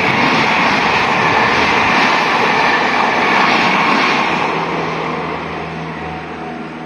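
A Meitetsu Tokoname Line electric train passing over a level crossing: loud wheel and running noise, strongest for the first four seconds or so, then fading as it draws away.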